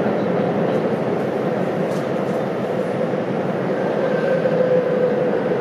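Tobu 9050 series electric train running through a subway tunnel, heard from inside the car: a steady rumble of wheels and running gear with a constant hum, joined by a faint high whine about four seconds in.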